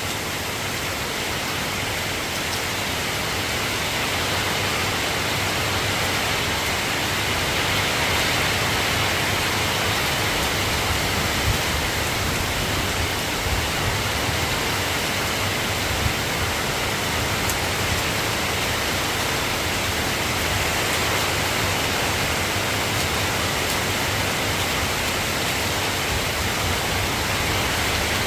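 Steady rain falling in an even hiss, swelling slightly over the first few seconds.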